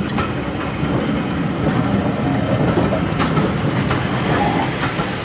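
Slam-door railway coaches rolling past at close range: a steady rumble of steel wheels on the rails, with a few sharp clicks as the wheels cross rail joints.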